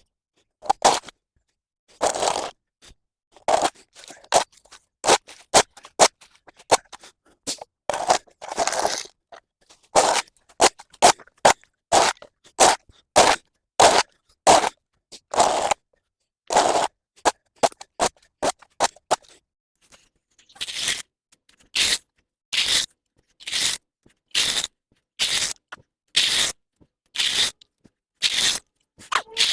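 Repeated scraping strokes, about one a second, of a hand tool clearing mud, leaves and debris from a path. The strokes get brighter and sharper in the last third.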